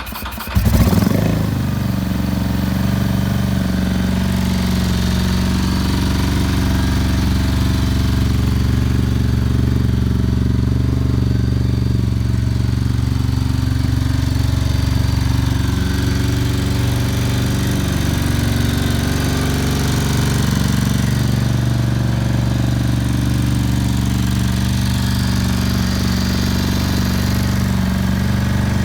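Ducati Monster 800's air-cooled L-twin engine catching with a brief rev about a second in, then idling steadily.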